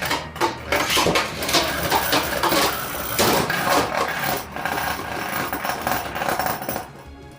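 Two 3D-printed Beyblade spinning tops clashing again and again in a stadium: a dense, rapid clatter of hard hits that dies down about seven seconds in.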